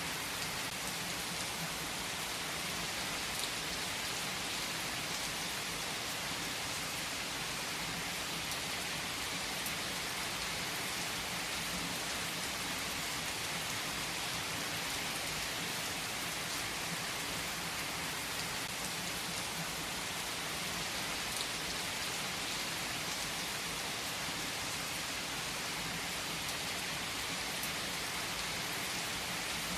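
Steady rain falling on a surface, a constant hiss with scattered faint drop ticks.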